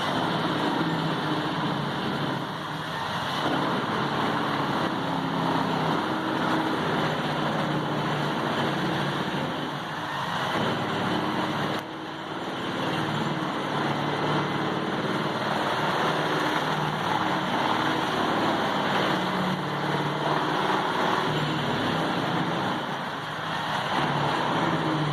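A wood chipper's engine running steadily as it works. Its pitch rises and falls a little over an even grinding noise. The sound breaks off sharply for a moment about twelve seconds in.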